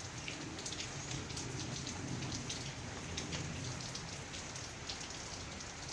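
Rain falling steadily, with many separate drop hits close by.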